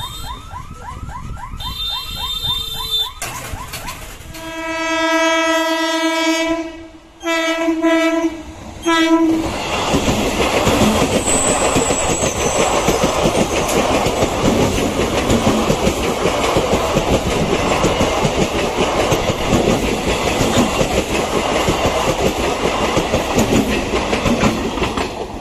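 A fast warbling alarm-like tone for the first few seconds, then an Eastern Railway suburban EMU train sounds its horn: one long blast followed by two short ones. The train then passes through the level crossing with a loud, steady rush of wheels clattering over the rails, and a brief high wheel squeal shortly after it arrives.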